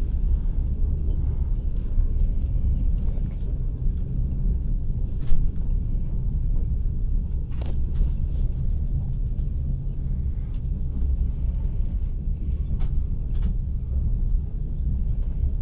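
A passenger train carriage rolling along, heard from inside: the running gear on the track makes a steady low rumble. A few sharp knocks come through, the loudest about five seconds in.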